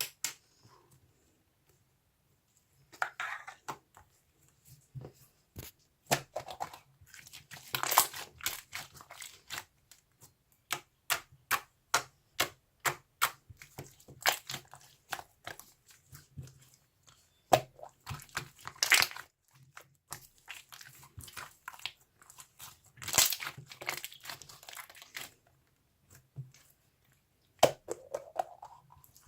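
Irregular handling noise: crinkling, tearing and tapping of material worked by hand, in short uneven bursts with pauses between them.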